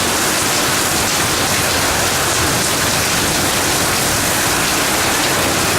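Heavy rain pouring down in a storm, a loud, steady hiss with no let-up.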